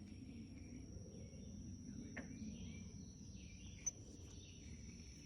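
Faint outdoor ambience: a steady high-pitched insect drone over a low background hiss, with two small clicks about two and four seconds in.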